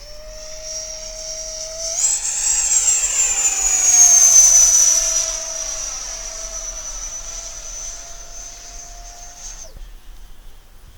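Electric ducted-fan RC model jet flying past with a high-pitched whine. It grows louder, then its pitch slides down as it passes overhead. Near the end the whine drops away abruptly.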